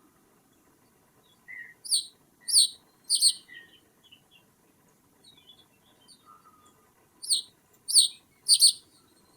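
A bird calling: two sets of three short, sharp, high calls, each falling in pitch, with a few faint, softer chirps in between.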